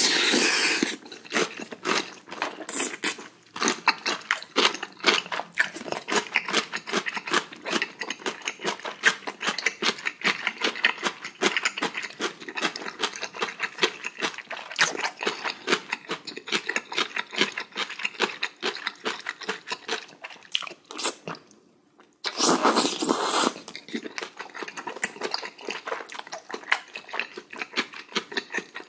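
Close-miked, wet chewing of beef small intestine (gopchang) from a spicy hot pot: a rapid, uneven run of mouth clicks and smacks. A loud slurp comes right at the start as a piece is sucked off the spoon, and another loud burst of noise about three-quarters of the way through.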